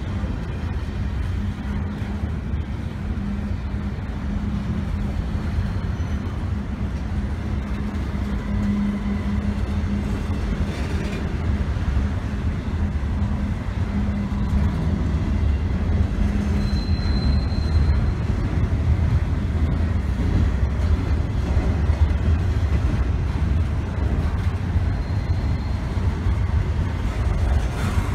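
Slow-moving double-stack intermodal freight train passing close by, its container-laden well cars rumbling steadily over the rails.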